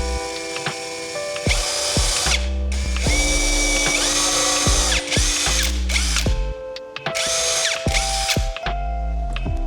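A power tool running in about four bursts of a few seconds each, over background music.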